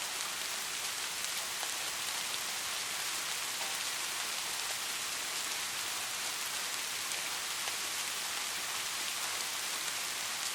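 Steady soft rain falling, an even hiss with fine scattered drop ticks.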